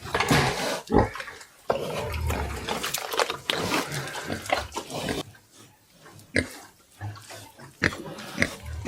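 Pigs squealing and grunting, the squealing dense and loud for the first five seconds or so, then short scattered grunts.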